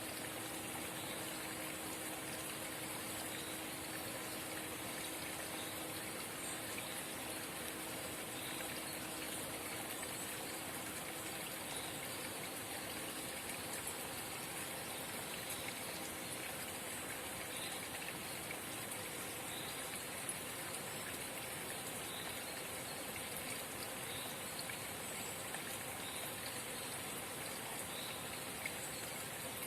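Forest spring trickling and burbling steadily: an even, unbroken sound of running water.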